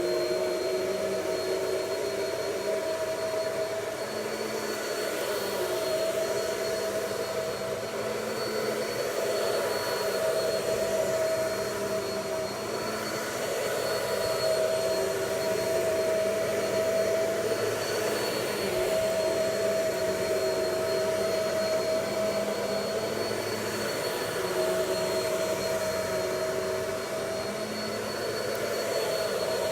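Vacuum cleaner running steadily on carpet, a motor hum with a high whine over it, its level swelling and dipping slightly.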